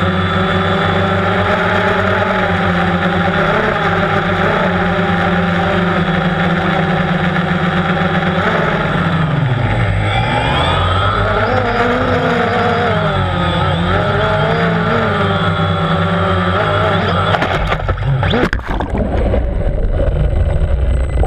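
DJI Phantom quadcopter's electric motors and propellers humming steadily in flight. About halfway through, the pitch dips and wavers as the motor speeds change. Near the end come a few sharp knocks, after which the hum gives way to a rougher, noisier sound.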